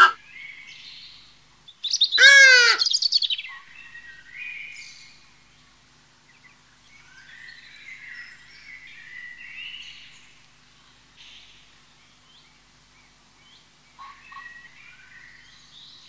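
One loud bird call about two seconds in: a short, rapid run of pitched notes lasting under a second. After it come faint songbirds chirping and singing in the background.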